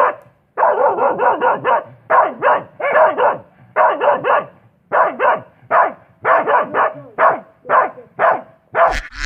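A dog barking repeatedly, in quick clusters of two to five barks with short pauses between them.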